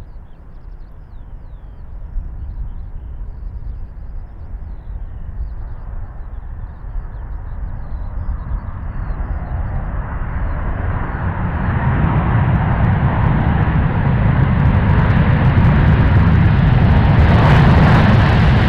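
Jet engines of an Airbus A380 on landing approach, growing steadily louder as the airliner comes closer and loudest near the end.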